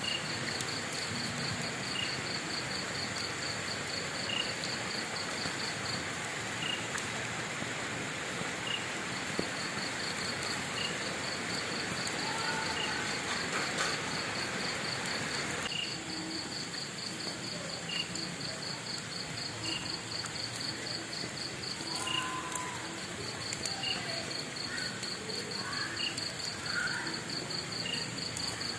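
Crickets trilling steadily, with a short high chirp repeating about every two seconds, over the low crackling hiss of a fire. The fire's hiss drops abruptly about halfway through.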